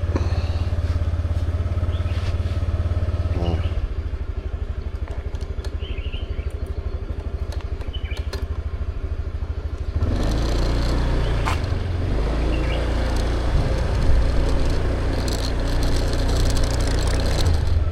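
Motorbike engine idling after start-up, with an even pulsing beat for a few seconds. About ten seconds in it gets louder and rougher, with a few clicks and clatters over it.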